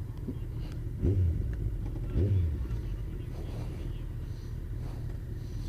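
Steady low rumble of a motorcycle on the move, engine and road noise together. Two short louder swells come about a second and two seconds in.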